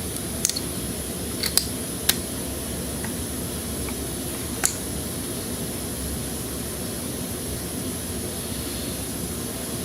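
A few sharp plastic clicks as electrical connector plugs are snapped back onto the thermostat housing and its temperature sensor. Under them runs a steady whooshing drone, like a running shop fan.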